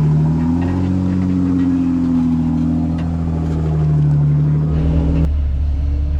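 Off-road Jeep engine revving hard under load, its pitch wavering up and down. About five seconds in the revving cuts off suddenly, leaving a lower, steady rumble.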